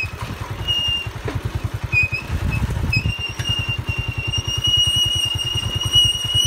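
Motorcycle engine running steadily while riding, with a rapid, even low pulsing. A thin, high steady tone joins about halfway through.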